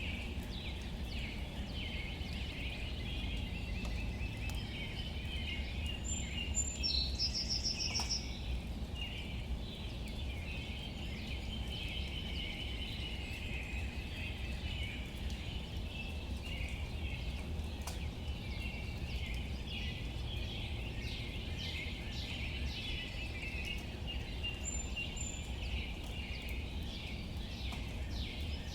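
Light rain falling on leaves, with small birds chirping throughout and a brief rapid high trill about seven seconds in, over a steady low rumble.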